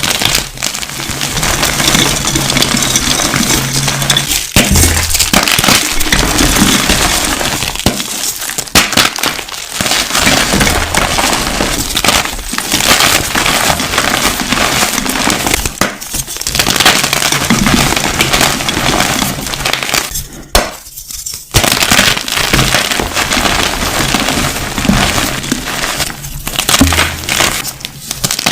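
Continuous crunching and crushing of brittle, glassy material, a dense crackle of clinks and snaps that drops away briefly a few times, over a low bass line.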